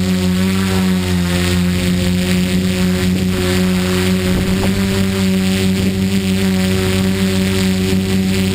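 Tricopter's electric motors and propellers buzzing steadily in flight, their pitch dipping slightly about a second in, over a rough hiss.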